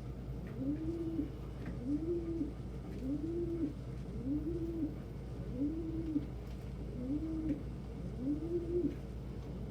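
Domestic pigeon cooing: a low coo that rises and falls, repeated evenly about once a second.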